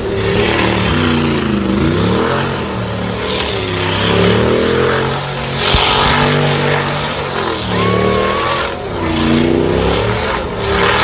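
Camaro's turbocharged LS1 V8 revving up and down over and over as it spins donuts, with the hiss of its tires spinning on the pavement.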